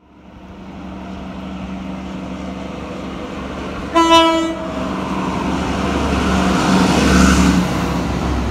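NSW TrainLink XPT diesel express passing through a station: the power car's engine rumble builds as it approaches, with one short horn blast about four seconds in, then the rush of the carriages going by.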